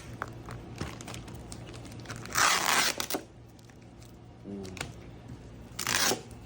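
Packaging being pulled and torn open: two loud rasping tears of packing material, the first about two and a half seconds in and the second near the end, with small crackles and clicks of handling between them.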